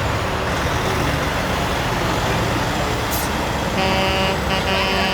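Semi trucks' engines running in traffic; about four seconds in, a truck horn starts and holds a steady chord.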